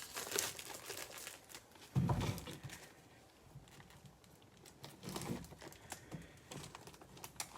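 Plastic wrapping on a pack of trading-card top loaders crinkling and tearing as it is opened, with scattered rustles and a dull thump about two seconds in.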